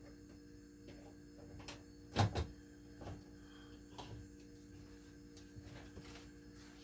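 A few knocks and clicks of kitchen things being handled, the loudest about two seconds in, with smaller ones about a second and two seconds later, over a faint steady hum.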